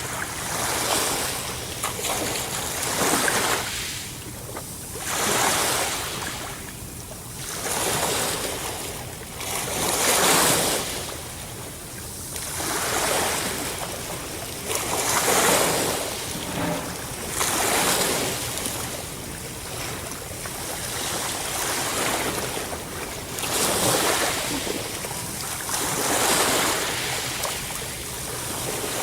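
Ocean waves breaking and washing onto a shore, a rushing swell that rises and fades every two to three seconds.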